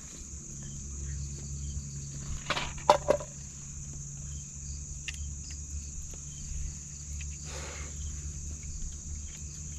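Steady high-pitched chirring of crickets and other insects in a forest at dusk. A few sharp knocks, the loudest sounds, come about three seconds in.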